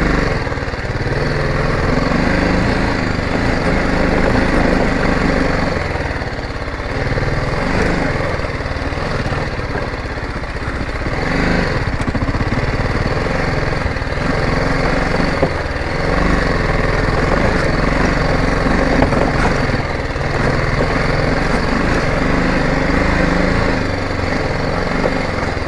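Motorcycle engine running as the bike is ridden, its pitch shifting up and down with the throttle.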